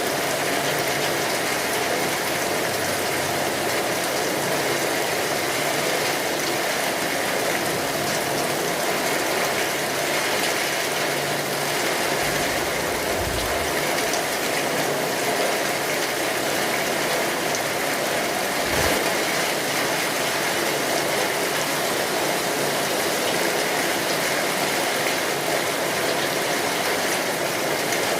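Steady rainfall: an even, unbroken hiss of falling drops. Two short low rumbles sit under it, one about midway and one some five seconds later.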